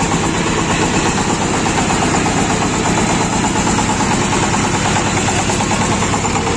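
Engine of a homemade mini tractor running steadily at idle with an even, fast pulse.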